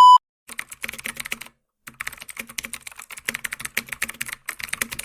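Rapid typing on a computer keyboard, a quick run of key clicks with one short pause about a second and a half in. A loud steady beep cuts off just as it starts.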